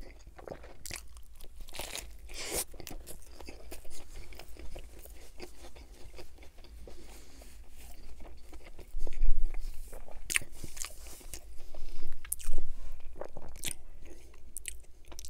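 Close-miked biting and chewing of a crispy breaded chicken sandwich with lettuce, bacon and tomato: a run of wet crunches and crackles from the fried coating and lettuce, with a few louder crunches in the second half.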